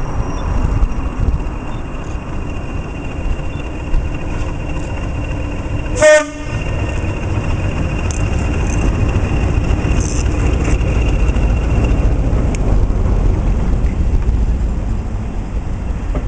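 Diesel train running with a heavy low rumble, and a single short horn blast about six seconds in; the rumble grows louder after the horn.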